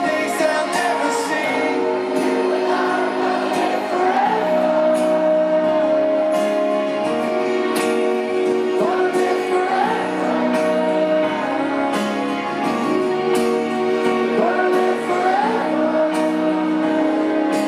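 Live rock band playing with singing over held chords, recorded from the crowd.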